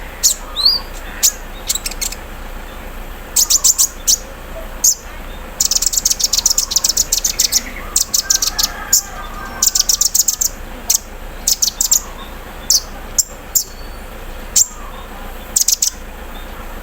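A kolibri ninja (a sunbird) singing in bursts of sharp, very high chipping notes. Some runs come so fast that they rattle like an embroidery machine, with a short rising whistle near the start.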